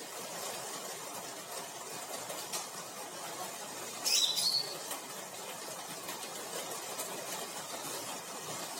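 A single short bird chirp about four seconds in, over a steady background hiss.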